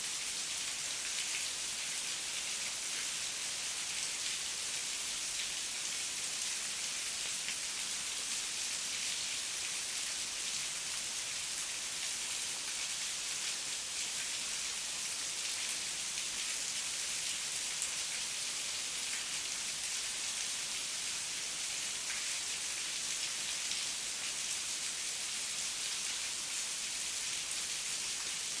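Heavy rain falling steadily, a dense even hiss of drops with fine individual drop ticks and no thunder.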